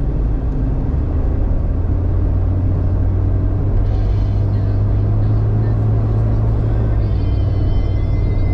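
Jeep Cherokee XJ engine and drivetrain running at a steady low pitch while driving off-road on snowy trails, with a few faint thin high tones near the end.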